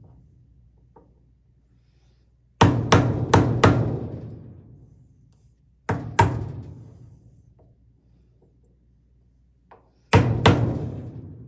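Hammer blows in three quick groups, four strikes, then two, then three, each strike ringing out and fading over about a second.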